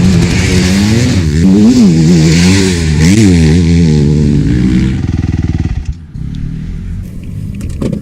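Honda CRF four-stroke motocross bike's engine revving up and down hard, with two sharp rev peaks about two and three seconds in. About five seconds in it drops to a quieter, lower running, with a few clicks near the end.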